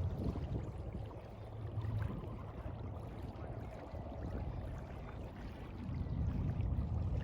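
Sea water washing and lapping, with a low rumble that eases after the start and swells again near the end.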